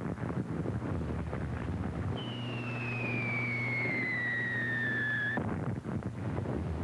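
Falling whistle of an incoming artillery shell: one tone starts about two seconds in, glides down for about three seconds and cuts off suddenly. It sits over the steady hiss and crackle of a worn early sound-film track.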